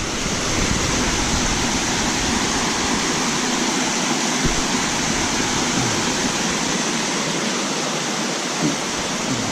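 Waterfall water pouring and splashing over the cascades, a steady rush.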